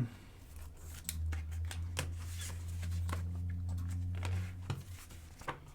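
Scattered light clicks and handling noises, with a low steady hum from about half a second in until near the end.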